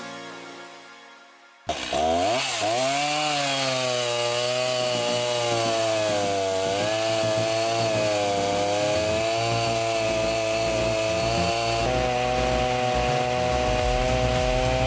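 A chainsaw starts abruptly after a short fading sound and runs hard, cutting wood, its engine pitch dipping and recovering as the chain bites.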